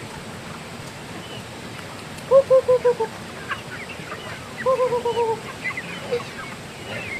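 Laying ducks quacking: two quick runs of six or seven loud quacks, each run dropping slightly in pitch, with scattered thinner, higher calls from the flock around them.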